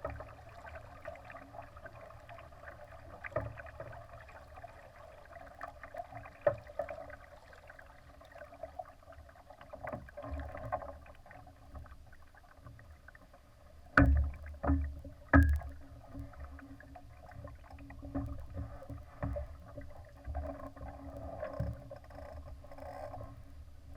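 Water washing and splashing against the hull of a Laser sailing dinghy, with scattered small clicks. A little past halfway come three sharp knocks in quick succession, the loudest sounds here.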